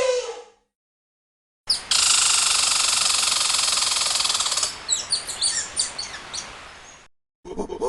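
Many birds chirping at once in a dense, high chorus that starts abruptly, then thins to separate quick chirps and fades out. Before it, the tail end of a lower animal call.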